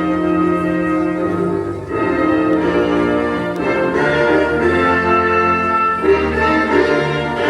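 Orchestral music with brass and strings playing slow, held notes.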